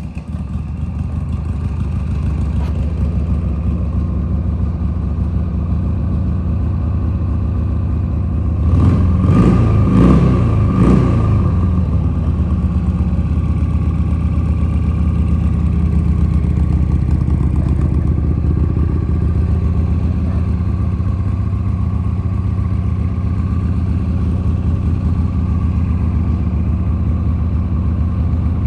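Harley-Davidson Sportster 883's air-cooled V-twin engine running at idle, blipped up in a few quick revs about nine seconds in before settling back to a steady idle.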